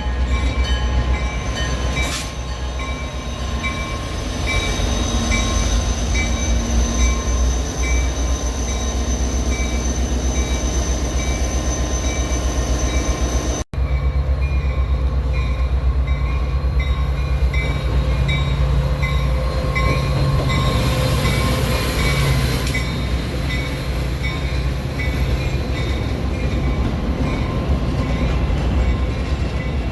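A train running by with a steady low rumble. The sound breaks off for an instant about halfway through and then carries on.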